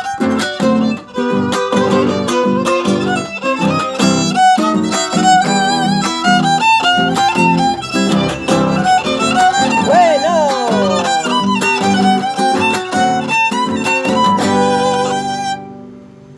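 Violin playing a lively melody with vibrato and slides over acoustic guitar accompaniment. The music ends with a final note about fifteen seconds in, and the guitar's low strings ring on after it.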